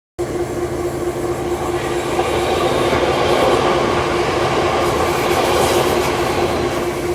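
Train running on the rails: a steady rumble and wheel-on-rail noise with a constant mid-pitched hum, cutting in abruptly just after the start.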